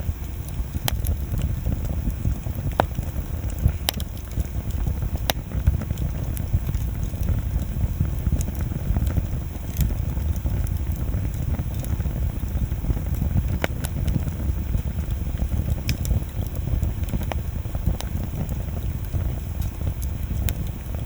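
Wood bonfire burning: a steady low rumble with scattered sharp pops and crackles from the burning wood, a few seconds apart.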